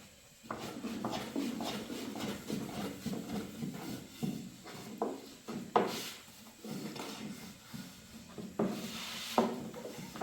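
Irregular knocking and scraping of objects being handled, with a couple of sharper knocks.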